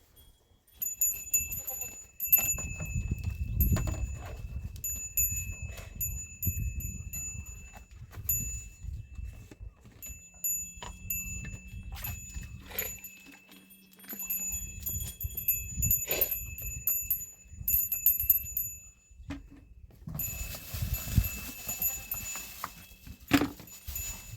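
Livestock bells ringing on and off with a clear, repeated tone as the animals move, over irregular low rumbling and knocks.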